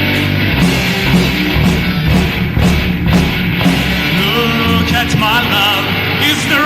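Rock band playing live: bass, drums and guitars in a loud, dense instrumental passage, with a wavering high melodic line coming in about two-thirds of the way through.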